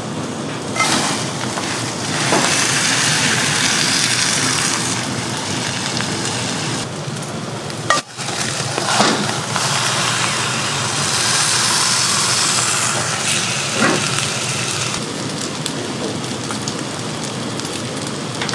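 Steady crackling hiss of cooking, with a few sharp clicks and knocks scattered through it; the sound drops out briefly about eight seconds in and carries on.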